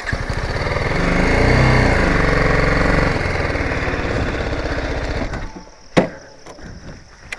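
A motorcycle engine passing close by, growing louder over about two seconds and then fading, its pitch shifting as it goes by. A single sharp click about six seconds in.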